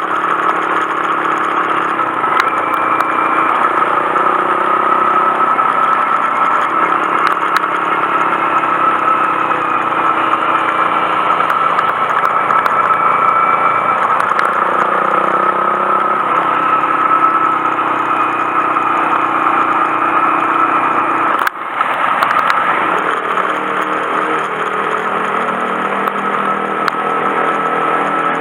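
Honda Monkey 125's single-cylinder engine running on the move, its pitch rising and falling with the throttle. The sound cuts out briefly about three-quarters of the way through.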